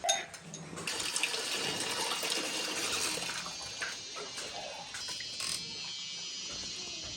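Water running and splashing steadily, easing off in the second half, with a sharp knock right at the start.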